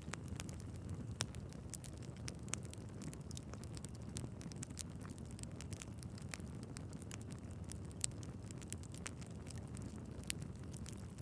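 Wood fire burning in a fireplace: a steady low rumble of flames with many sharp crackles and pops from the logs, one louder pop about eight seconds in.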